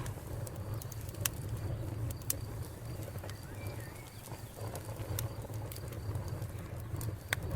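Wood fire burning in a fireplace: a steady low rumble with a few sharp, scattered crackles and pops of the burning wood.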